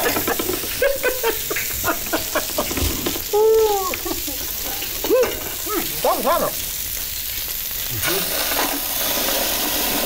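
Food frying and sizzling, with a utensil clicking and scraping quickly against the pan for the first couple of seconds. A few short pitched sounds rise and fall in the middle, the loudest about three and a half seconds in. The steady sizzling hiss grows louder near the end.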